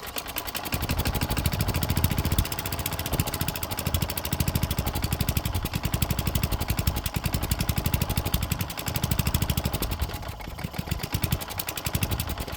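Small gasoline engine of a Craftsman wheeled string trimmer running, its speed rising and falling unevenly. The owner takes this for a dirty carburetor still holding old fuel and gunk, the engine running on the sprayed starting fluid rather than its own fuel.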